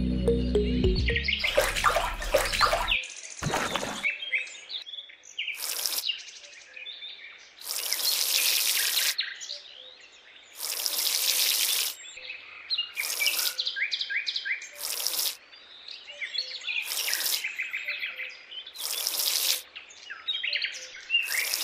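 Birds chirping and singing, with short bursts of rushing noise about every two seconds, each up to a second and a half long. Music fades out in the first second.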